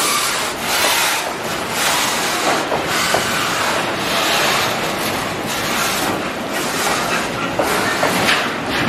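Loaded container flat wagons of a freight train rolling past close by: a steady, loud rumble of steel wheels on rail, with repeated clacks as wheelsets pass over the rail joints and a few short, faint wheel squeals.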